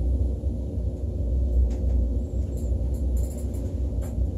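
Steady low rumble inside the cabin of a KTX high-speed train running on the track, with a few faint high ticks.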